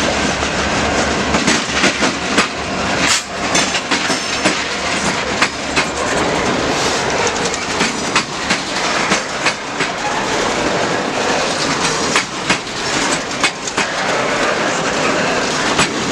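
Canadian Pacific Holiday Train's cars rolling past, a loud steady rumble with many sharp clicks as the wheels run over the rail joints.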